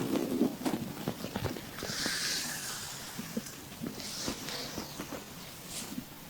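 Stomach gurgling under an abdominal massage: many short wet gurgles and squelches, heaviest in the first second or so, with a soft swish of oiled hands sliding over the skin about two seconds in and again about four seconds in.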